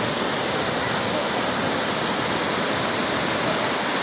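Waterfall rushing: a steady, even wash of falling water that neither rises nor falls.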